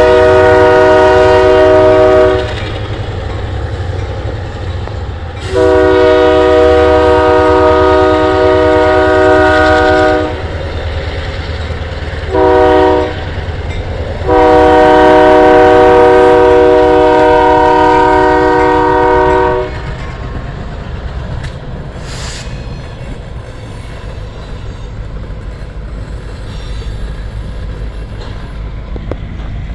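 Union Pacific diesel locomotive air horn sounding the grade-crossing signal: the end of a long blast, then a long, a short and a final long blast, over the low rumble of the engines. After the last blast the locomotives and freight train keep rumbling past.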